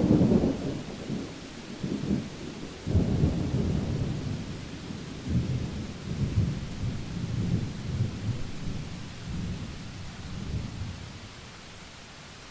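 Thunderclap that breaks suddenly and rolls on in a low rumble, surging again about three seconds in and dying away near the end, over steady rainfall hiss.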